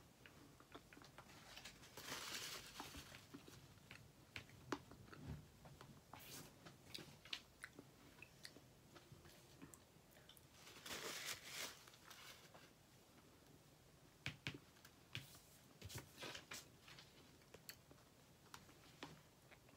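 Faint mouth sounds of a person chewing food: scattered soft clicks and smacks at irregular intervals, with a longer hissing rustle about two seconds in and another around eleven seconds.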